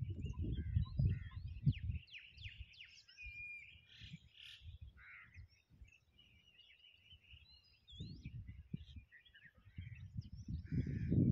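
Several birds chirping and calling, with quick rising and falling whistles. Low rumbling noise, the loudest sound, comes in the first two seconds and again near the end.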